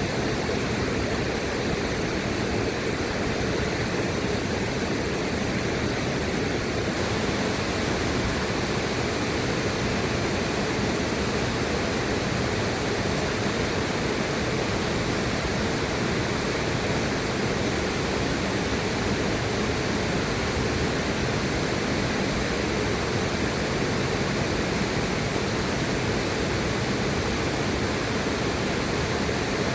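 River water rushing steadily, an even hiss with no breaks. Its higher part turns abruptly brighter about seven seconds in.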